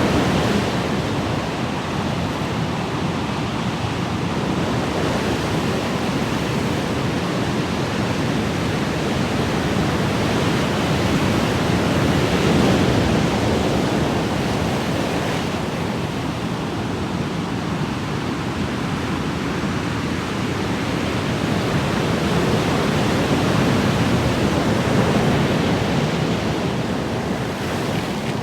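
Ocean waves washing onto a shore in a continuous rushing wash, swelling and easing slowly every several seconds.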